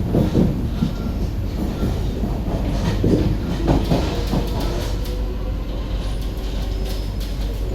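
SMRT C151B metro train running between stations, heard from inside the car: a steady rumble of wheels on rail with clacks over the track joints. The clacks come loudest just after the start and again about three to four seconds in.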